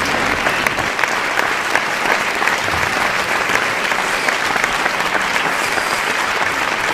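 Large audience applauding steadily, a dense wash of many hands clapping with some crowd voices mixed in.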